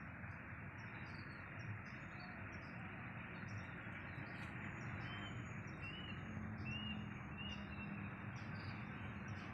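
Small birds chirping repeatedly, short high calls about once or twice a second, over a steady outdoor noise.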